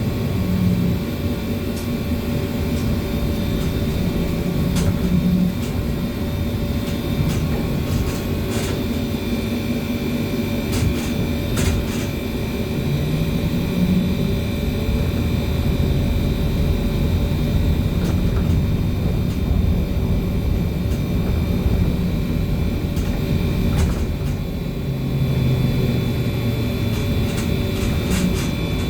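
Interior of a moving BKM-321 trolleybus: a steady low rumble of the ride with an electric motor hum that shifts in pitch, and a few sharp clicks or rattles.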